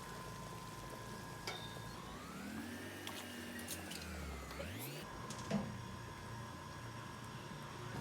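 A motor whining at a steady pitch, rising in pitch about two seconds in, dipping and climbing again near the middle, then settling back to its steady pitch.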